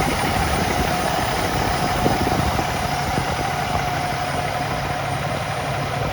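A 2013 Freightliner day cab's Cummins ISX12 inline-six diesel idling steadily, with a constant whine above the rumble.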